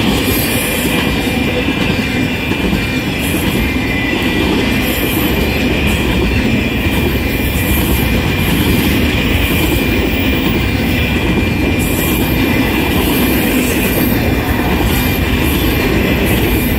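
Intermodal freight train passing at speed: a steady loud rumble and clatter of wheels on the rails as the trailer and container cars roll by, with a thin high whine held steady underneath.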